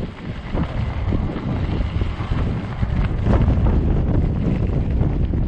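Heavy, gusting wind buffeting the microphone, a loud, uneven low rumble.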